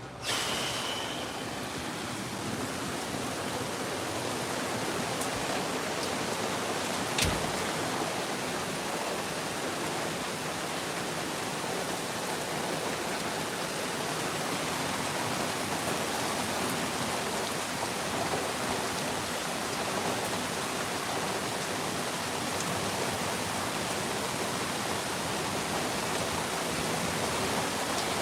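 Steady heavy rain, an even hiss that holds level throughout, with one sharp knock about seven seconds in.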